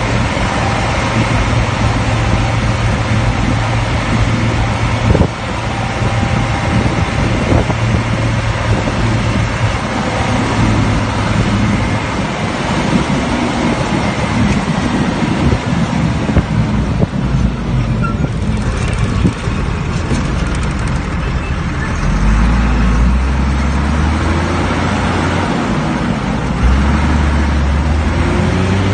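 Fendt Favorit 824 Turbomatik tractor's six-cylinder turbo diesel running loudly and steadily, its engine pitch dropping and wavering up and down in the second half.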